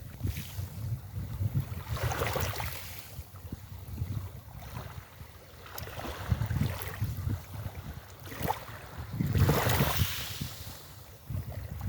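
Sea waves washing onto a beach, with two larger waves surging in about two seconds in and again near the end, over wind buffeting the microphone with a gusty low rumble.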